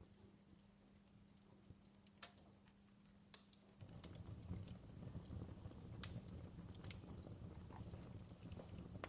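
Faint wood fire crackling in a fireplace, with scattered sharp pops. A low hum stops about four seconds in, and a low rumble comes in at the same moment.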